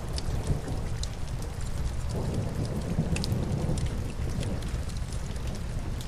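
Rain-and-fireplace ambience: a steady wash of rain with a low rumble underneath and scattered sharp crackles. About two seconds in, a swell of heavier noise rises and eases off again about two seconds later.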